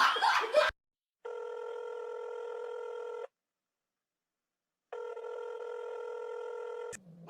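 Electronic telephone ring tone sounding twice: two steady, even-pitched tones about two seconds each, with about a second and a half of silence between them.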